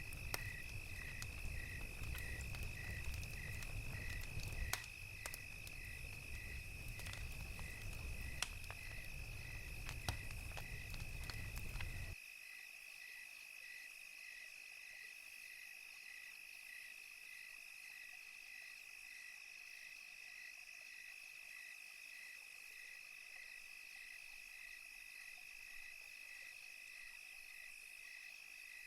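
Crickets chirping at about two chirps a second over a steady high insect trill. A crackling campfire with a low rumble sounds alongside until it cuts off suddenly about twelve seconds in.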